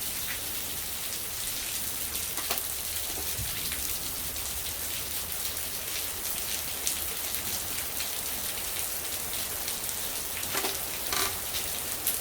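Steady rain falling, an even hiss of drops, with a few short clicks, about two and a half seconds in and twice near the end.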